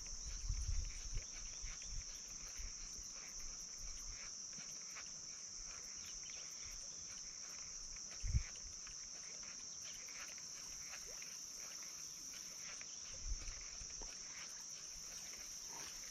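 Insects calling in a steady, high-pitched chorus, with a few soft low bumps, the loudest about eight seconds in.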